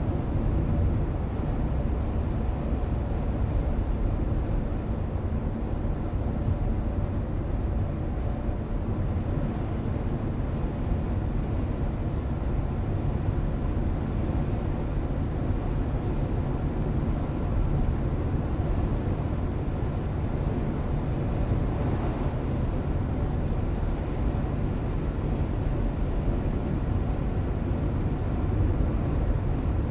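Steady road and engine noise of a car being driven, heard from inside, a low even rumble without change in speed or pitch.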